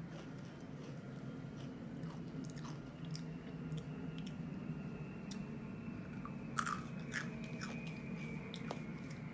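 Someone biting and chewing crunchy rolled corn tortilla chips (Fuego Extreme Takis): irregular crisp crunches, the sharpest about six and a half seconds in, over a steady low hum.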